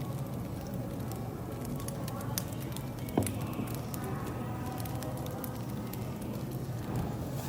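Wood fire crackling: scattered small pops and snaps over a steady low hum, with one louder snap about three seconds in.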